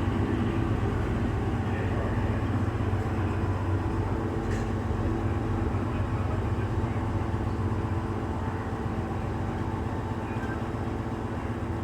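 A cog railway train's diesel engine running steadily with an even, low hum, easing off slightly toward the end.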